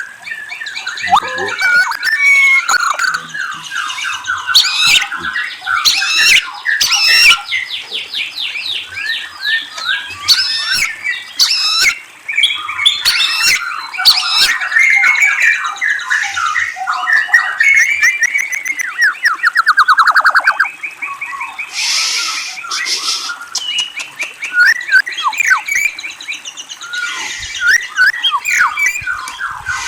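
A murai, a Copsychus songbird, singing a long varied song of loud whistles, fast trills and harsh squawking notes, with rising and falling glides, including a long falling sweep about two-thirds of the way through.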